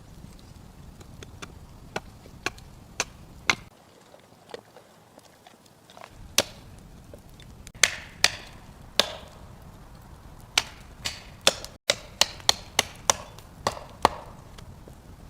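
Wood being chopped: a series of about twenty sharp, irregularly spaced strikes, some ringing briefly.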